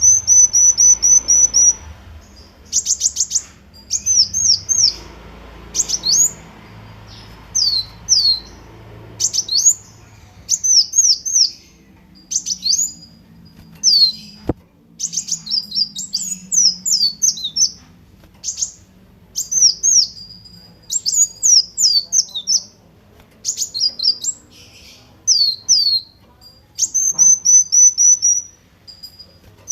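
Kolibri wulung sunbird singing: bursts of high, quick chirps and downward-sweeping notes, with a fast trill at the start and again near the end. A single sharp click about halfway through.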